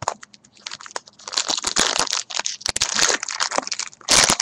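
Plastic wrapper of a baseball card pack crinkling and tearing as it is ripped open by hand, with a sharp, loud crackle near the end.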